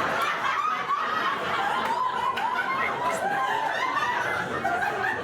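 Theatre audience laughing steadily at a joke, many voices chuckling together.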